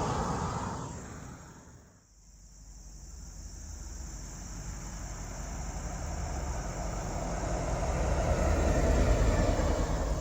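A car going past on the road fades away over the first two seconds. Then another vehicle's low engine rumble builds as it approaches, is loudest about nine seconds in, and starts to fade as it passes.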